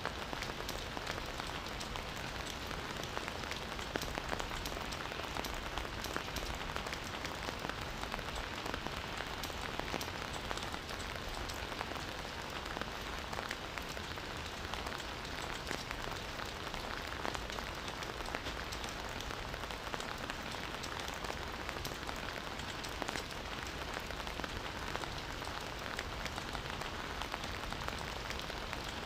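Steady rain falling in a forest, a constant hiss with many fine individual drop patters.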